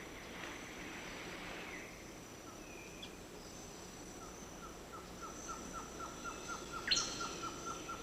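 Tropical rainforest ambience: insects droning steadily at a high pitch. About halfway in, an animal starts calling a short repeated note, about four times a second, and a brief sharp chirp comes near the end.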